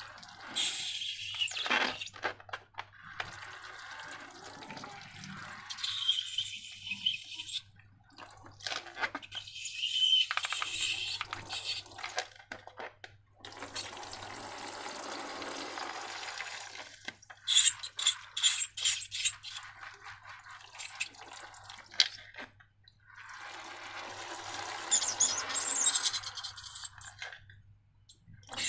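Liquid slime mixture being poured in several gushes of a few seconds each, with short pauses and scattered clicks and crackles between them.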